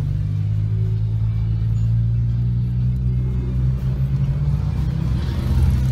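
Car engine running at a steady speed, a low even drone.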